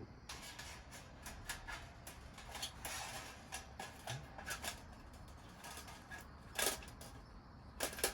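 Metal camping gear being handled: a run of small clicks and knocks, with two louder clatters near the end.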